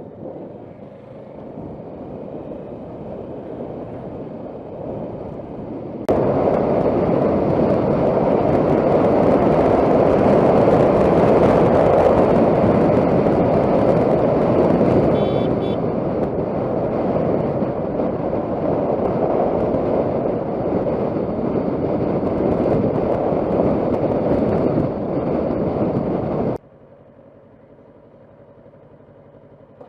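Motorcycle on the road: steady engine and road noise that jumps suddenly much louder about six seconds in and drops away abruptly near the end.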